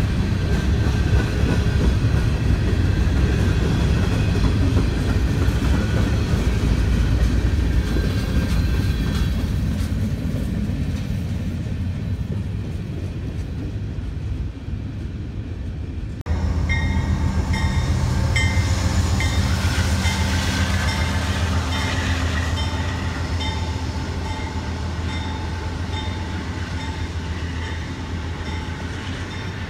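A train rolling past, its rail cars running with a steady rumble that slowly fades. About halfway through, an abrupt cut jumps to another train passing, its wheels clicking in a regular rhythm over the rail joints.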